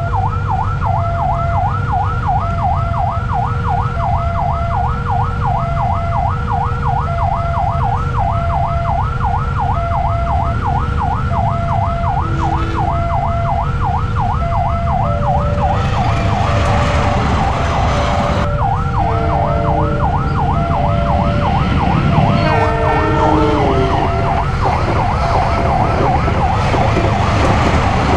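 Railway level crossing warning siren warbling rapidly, about two to three sweeps a second, over a steady rumble of idling engines. About halfway a louder rushing noise joins, the warble drops out briefly and resumes, and a few short horn notes sound a few seconds later.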